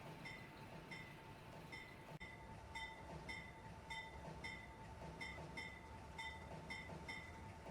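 A bell ringing at a steady pace, about one and a half strikes a second, each strike a short ringing tone, faint, with a brief break about two seconds in.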